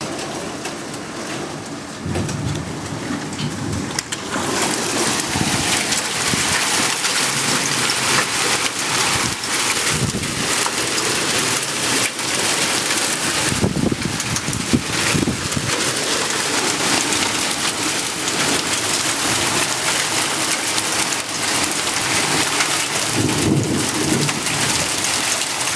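Hail and heavy rain pelting a car in a thunderstorm, a dense patter of hard hits that grows heavier about four seconds in. Low rolls of thunder rumble under it several times.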